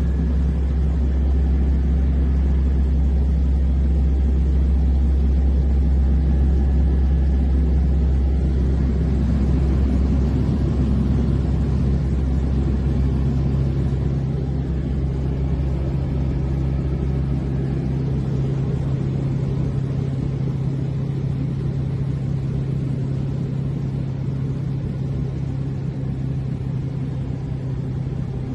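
Small airplane's piston engine droning steadily, its pitch shifting upward about a third of the way through and holding there.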